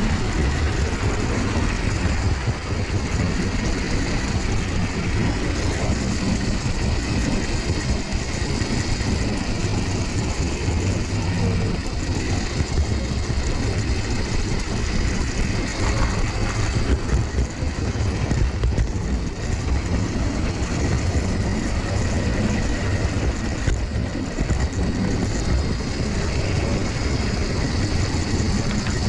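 OO gauge model train running on its track, heard close up: a steady running noise of the electric motor and the wheels on the rail.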